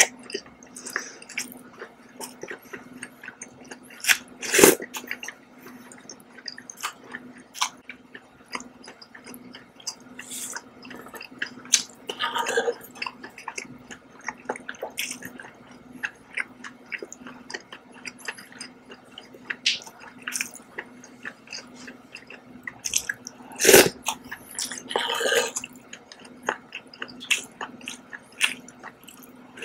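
Close-miked chewing of scallops in herb and oyster sauce, with sips of sauce from a wooden spoon; two louder sudden sounds stand out, about four seconds in and some six seconds before the end. A faint steady hum runs underneath.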